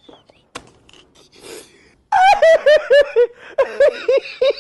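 A person bursts into loud, rapid laughter about halfway through, a quick run of ha-ha-ha syllables, after a couple of seconds of faint clicks.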